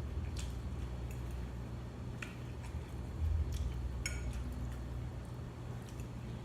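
Eating at a plate: a utensil clinks against the dish a few times amid chewing and mouth sounds, over a steady low hum.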